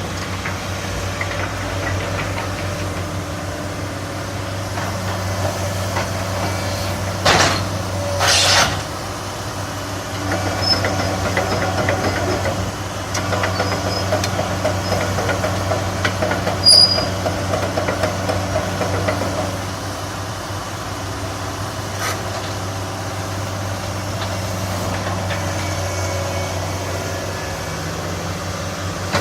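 Heavy diesel engine running steadily, with two short hisses of released air about seven and eight and a half seconds in and a sharp click a little past halfway.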